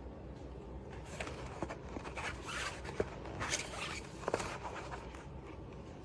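Rustling and several sharp clicks from handling the faux plant's plastic leaves and stems during assembly, bunched between about one and four and a half seconds in.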